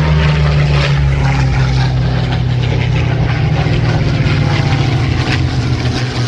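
Piston-engined propeller aircraft flying past, a loud steady engine drone whose pitch sinks slightly as it goes by.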